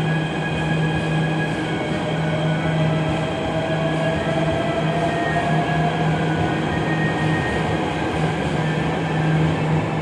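MRT Jakarta metro train running, heard from aboard: a steady rumble with a low hum and several high whining tones, one of which slowly rises in pitch through the middle as the motors pick up speed.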